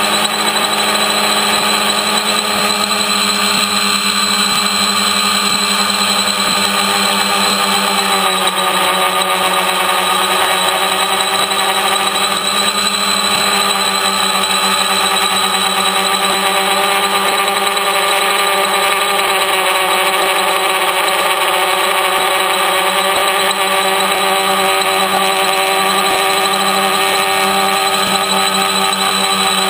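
Home-built T-copter's three electric motors and propellers running in flight: a steady, loud, many-toned whine. About eight seconds in, several of the tones shift slightly lower as the throttle changes.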